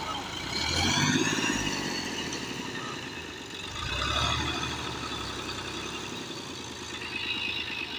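Tractor's diesel engine running and revving up twice under load, straining to drive the tractor out of deep mud where it is stuck.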